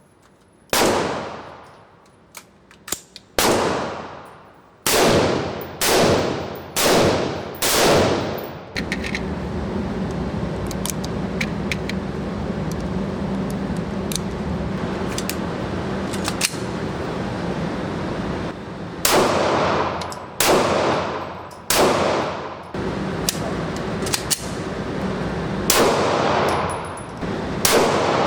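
Single gunshots fired one at a time about a second apart, each with a ringing, echoing decay. A group of about six shots, then about ten seconds of steady hiss and low hum with faint clicks, then about seven more shots.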